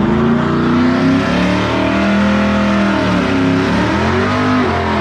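Car engine at full throttle during a drag-strip run. Its pitch climbs, holds, then drops and climbs again twice near the end as it shifts through the gears.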